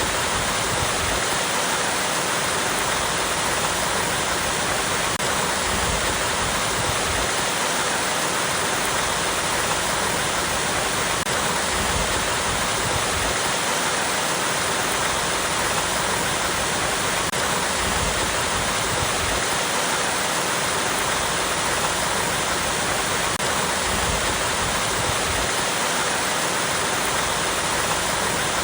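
Small waterfall splashing steadily over rocks, an even rushing of water.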